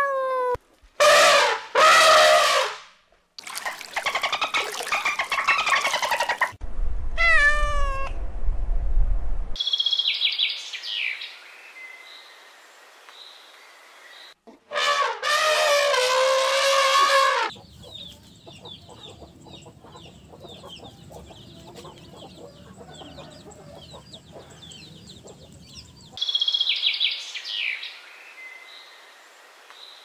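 A string of different animal calls: a domestic cat meowing twice about a second in, other loud pitched calls, and stretches of small birds chirping quickly.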